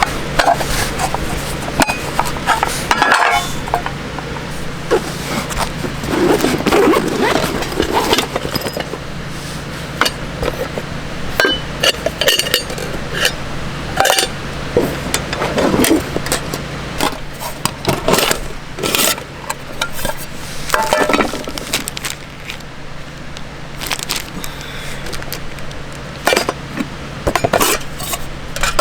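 Irregular clinks and knocks of cookware and utensils being handled, with a few longer clattering stretches, over a steady low hum.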